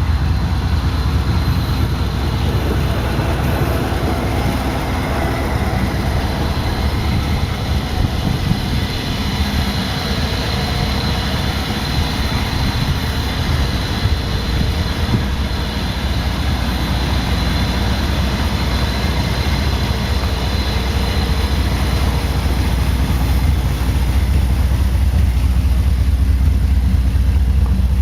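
LT1 350 V8 engine out of a 1997 Trans Am WS-6, running steadily in a 1988 Monte Carlo SS: an even, low hum that gets slightly louder near the end.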